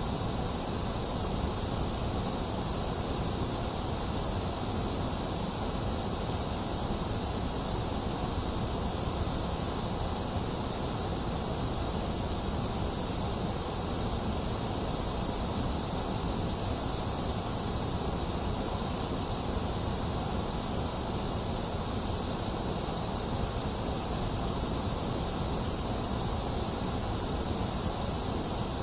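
Box fan running steadily, mixed with rain, making an even, unbroken hiss with a low rumble underneath.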